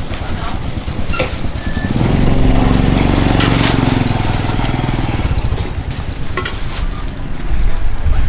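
A small engine running, loudest for a few seconds starting about two seconds in, with a few scattered clicks and knocks.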